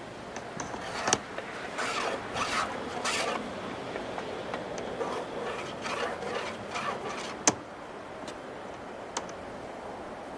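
Masking tape pulled off the roll in several short, rasping strips and rubbed down onto the surface, with a couple of sharp clicks.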